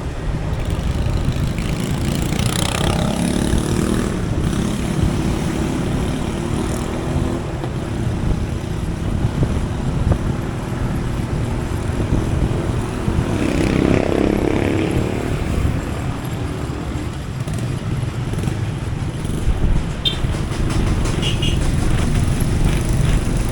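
Motorcycle engine running with wind and road noise while riding through traffic; other vehicles swell past about 3 seconds in and again about 14 seconds in. A few short high beeps come near the end.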